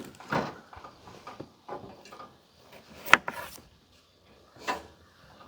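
A knife cutting small yellow potatoes on a cutting board: a few irregular knocks of the blade meeting the board, the sharpest about three seconds in.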